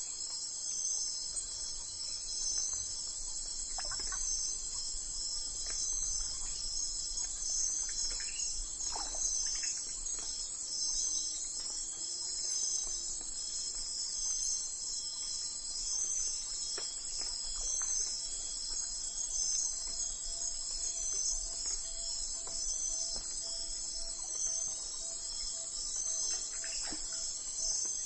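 Steady chorus of crickets trilling in a dense, even pulse, with a few faint, short calls scattered through it.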